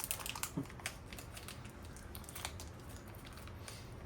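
Small clicks and crinkles of a plastic-wrapped cheese portion being handled and opened. A quick cluster comes in the first second, then a few single clicks later.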